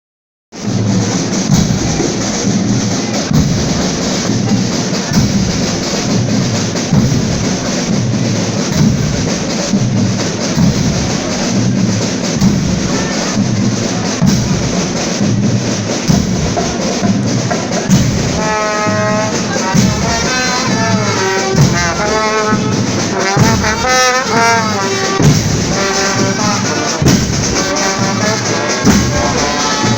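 Marching fanfare band playing: drums keep a steady beat, and the brass come in with a melody about two-thirds of the way through.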